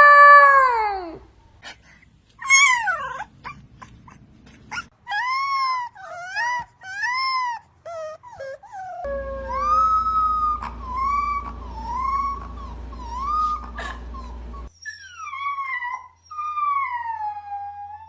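Puppies howling: a string of short, high 'awoo' calls, each rising and then falling in pitch, from several different puppies in turn, with a longer falling howl near the end.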